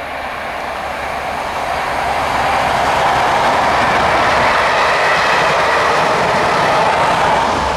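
HST test train passing at speed: a rush of wheel and engine noise that grows louder over the first couple of seconds and holds.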